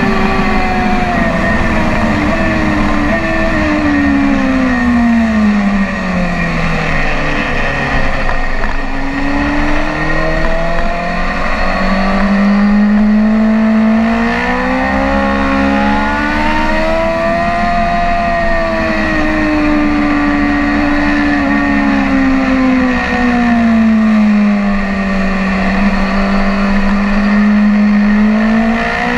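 BMW S1000RR inline-four sport-bike engine under way on a race track, heard onboard. Its note drops steeply from about four to eight seconds in, then climbs and eases back in long sweeps as the rider accelerates and rolls off.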